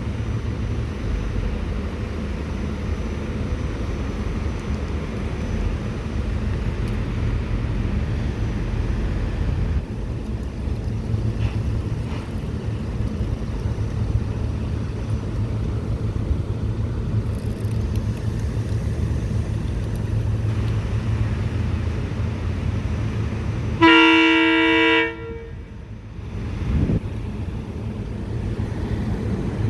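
A steady low rumble, then a SEPTA Silverliner IV train horn sounding one blast of about a second near the end, as the train gets ready to depart.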